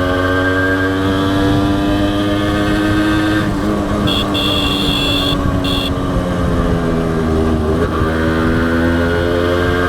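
Honda CDI H100S motorcycle's small single-cylinder four-stroke engine running under way: its pitch climbs, falls steadily once the throttle eases about a third of the way in, and climbs again near the end. A horn beeps twice around the middle, a long beep and then a short one.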